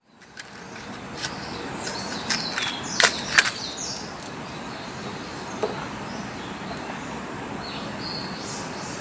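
Forest ambience: a steady rushing noise with short, high bird calls now and then, and two sharp clicks about three seconds in.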